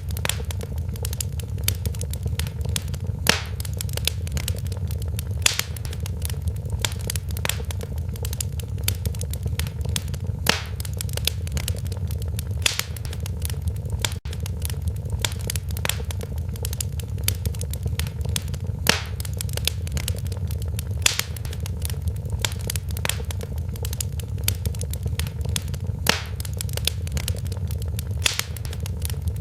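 Wood fire crackling in a fireplace: frequent sharp crackles and a handful of louder pops over a steady low noise from the burning fire.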